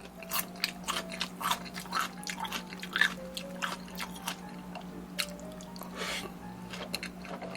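Close-miked eating sounds: irregular bites, crunches and wet chewing noises, several a second, over a steady low hum.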